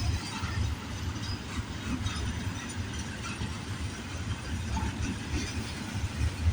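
An intermodal container freight train rolling past at speed: a steady rumble of steel wheels on the rails, with uneven small knocks.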